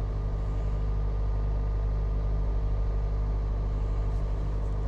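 Toyota Aqua NHP10's 1.5-litre four-cylinder engine running at a steady idle, very quiet and free of rattle, the loose part having been set solid with J-B Weld.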